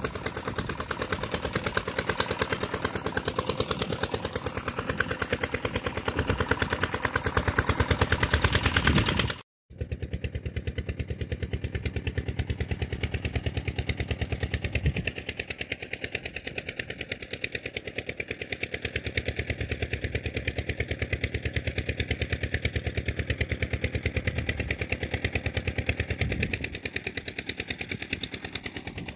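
Diesel engine driving an irrigation water pump, running steadily with a rapid, even knock of firing strokes. It cuts out for a moment about nine and a half seconds in, then resumes.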